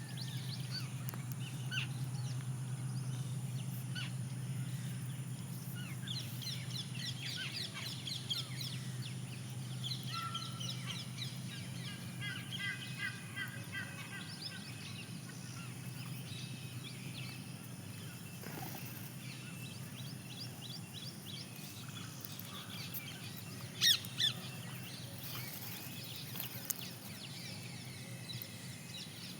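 Birds chirping and twittering in short repeated runs over a steady low hum, with two loud short calls close together late on.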